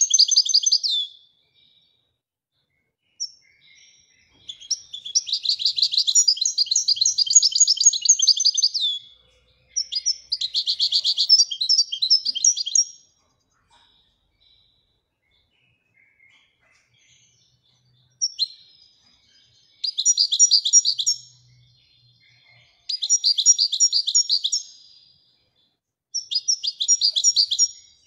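European goldfinch of the Moroccan form singing: phrases of rapid, high twittering notes, each lasting one to four seconds, broken by pauses of a second or more, with the longest phrase near the start.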